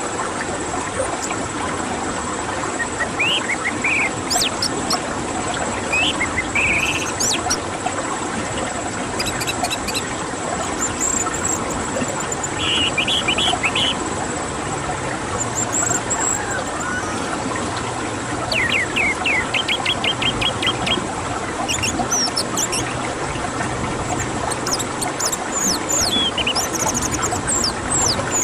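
Orange-headed thrush song: a string of short chirps, quick whistled sweeps and rapid trills, coming in separate phrases every second or two over a steady background hiss.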